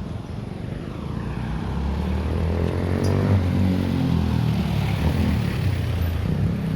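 Propeller aircraft flying low overhead: its engine drone grows louder over the first few seconds, then drops in pitch as it passes.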